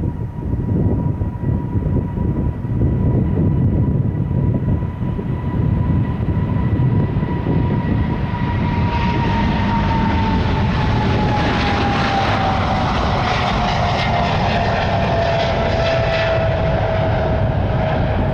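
A KLM Boeing 777-200's twin jet engines at takeoff power: a continuous deep roar with a steady whine that drops in pitch about halfway through as the aircraft passes. The sound turns rougher and crackling in the second half.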